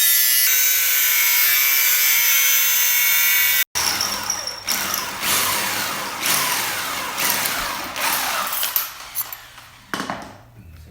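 A power tool running under load with a steady high-pitched whine, cutting into the headlight housing; it stops abruptly about four seconds in, followed by a series of rough rasping strokes about once a second that gradually fade.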